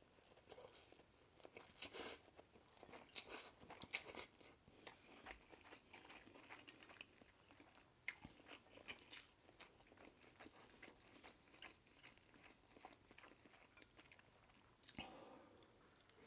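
A person chewing food close to the microphone, with frequent wet clicks and smacks of the mouth.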